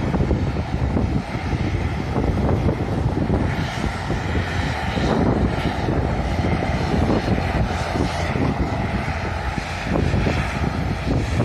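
Jet airliner engines running as a plane passes, mixed with strong wind buffeting the microphone.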